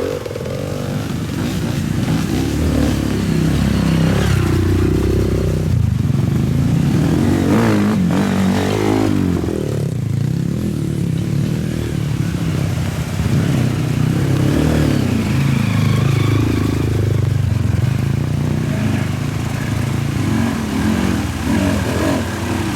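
Motorcycle engine running under load, its revs repeatedly rising and falling.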